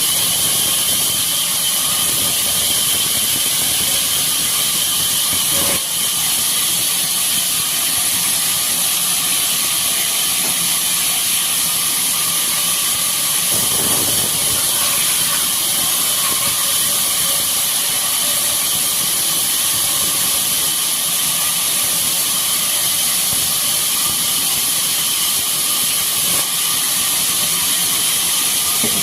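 Sawmill machinery running steadily: a continuous noisy hiss with a high whine held over it.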